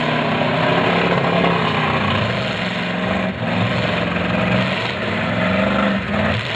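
Demolition derby car engines running hard and revving, their pitch rising and falling as the cars push and manoeuvre.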